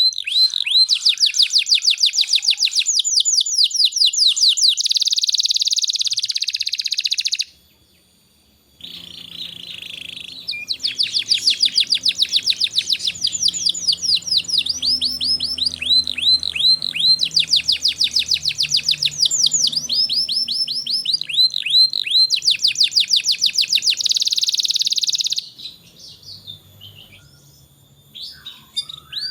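Domestic canary singing in long runs of rapid trills and rolling repeated notes. The song breaks off briefly about eight seconds in, then resumes and thins to fainter, scattered notes near the end.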